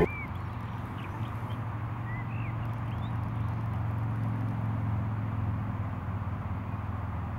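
Steady low rumble with a few short bird chirps in the first three seconds.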